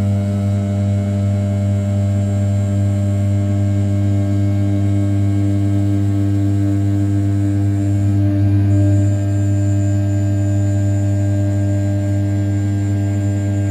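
Desktop CNC mill's 500 W brushless spindle turning at 6000 rpm while its end mill rough-cuts the outside profile of a block of 7075 aluminium: a steady, unchanging hum with a faint high whine above it.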